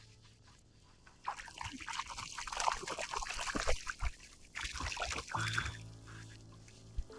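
Water splashing and sloshing in irregular bursts for about four seconds, a hooked redfish thrashing at the surface as it is landed, over faint background music.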